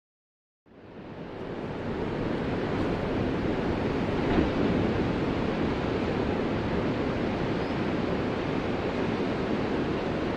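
Ocean surf: a steady wash of waves, fading up from dead silence about a second in.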